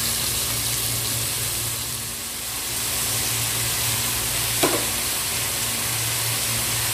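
Boiled chicken pieces frying in hot oil with browned garlic and onion: a steady sizzle, with one short knock about four and a half seconds in.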